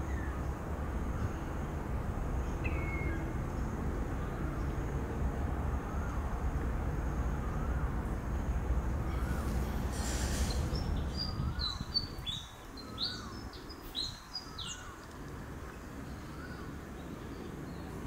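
Birds calling over a steady low rumble: faint short calls repeat about once a second throughout, and from about ten seconds in a quick run of sharp, high, short calls comes in, after which the rumble drops away.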